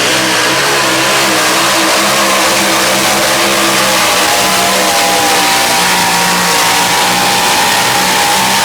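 A pulling truck's engine run hard at full throttle down the track, loud and steady, with a high whine that slowly climbs in pitch.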